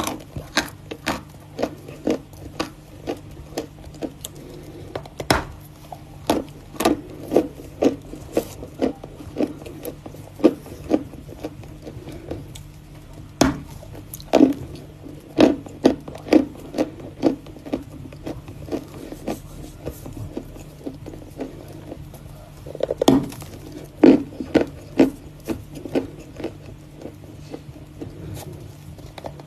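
Close-up biting and chewing of hard lumps of Volokonovka natural chalk: a string of sharp, dry crunches about one or two a second, with a denser flurry a little after the middle, over a faint steady hum.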